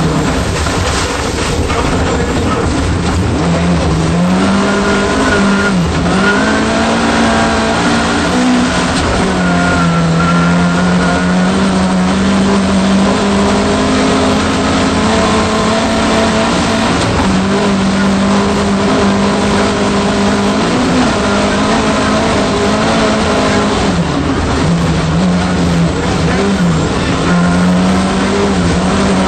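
Volvo 240 rally car's engine running hard at high revs, heard inside the cabin. The engine note holds steady and dips briefly several times as the driver lifts and changes gear.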